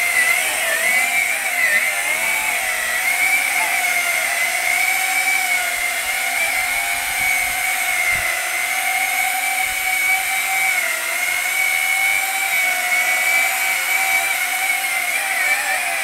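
WLtoys Q202 toy drone's electric motors and propellers spinning at high throttle: a loud, steady high whine that wavers slightly in pitch.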